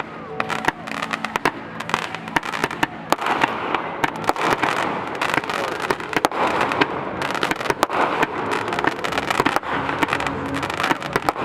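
Fireworks going off in quick succession: many sharp bangs and pops over continuous crackling.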